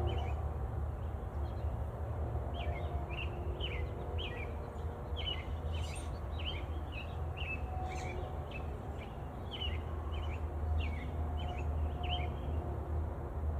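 A bird chirping over and over in a quick series of short, falling notes, over a steady low rumble.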